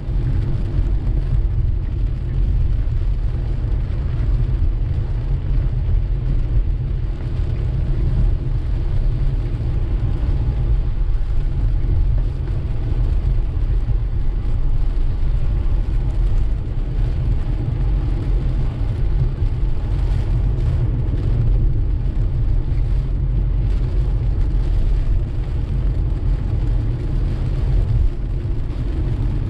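A car driving through steady rain, heard inside the car: a steady low road and engine rumble with the hiss of rain on the car.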